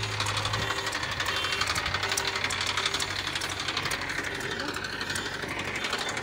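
Diesel engine of a heavy machine running with a fast, even clatter. A low steady hum under it fades out about half a second in.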